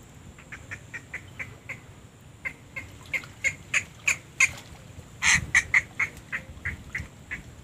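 A bird calling in quick runs of short, sharp notes, about three a second, the loudest calls a little past halfway.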